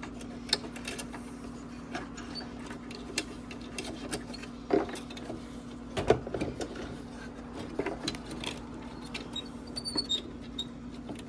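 Irregular plastic clicks, taps and knocks from handling a car headlight housing while its bulb connector is worked loose, the loudest about six seconds in, over a steady low hum.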